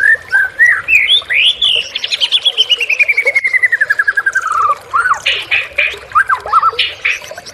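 White-rumped shama in full song: a few rising and falling whistles, then a long run of quick repeated notes, about ten a second, sliding steadily down in pitch, followed by harsh chattering notes mixed with short whistles.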